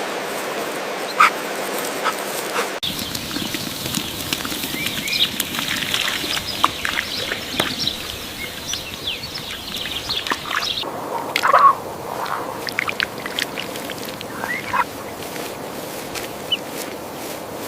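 Ducks quacking in short, scattered calls over a steady outdoor background hiss. The background changes abruptly about three seconds in and again near eleven seconds, as one clip is spliced onto the next.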